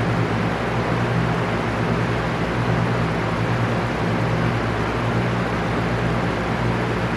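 Electric fan running steadily: an even rush of air with a low, constant motor hum underneath.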